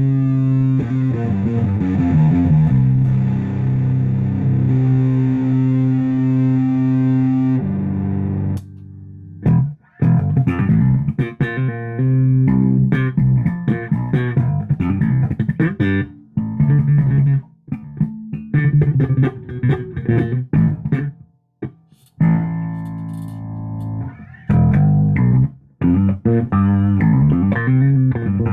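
Rivolta Mondata Deluxe electric bass played through a 1962 Fender Bassman amp stack. It holds long ringing notes for about the first seven seconds, then plays shorter plucked phrases with a few brief pauses between them.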